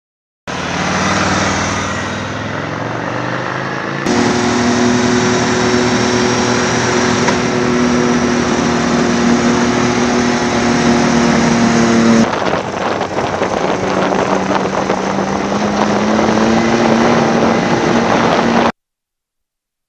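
Motorcycle engine running and revving, with the pitch rising near the start and again near the end. The sound changes abruptly about 4 and 12 seconds in, as if separate clips are joined.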